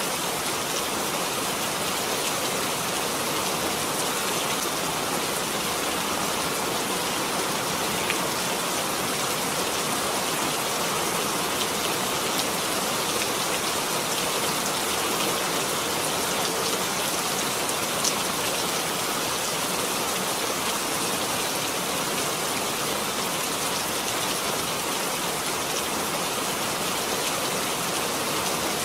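Steady heavy rain falling, a dense even hiss of drops with an occasional single louder drop.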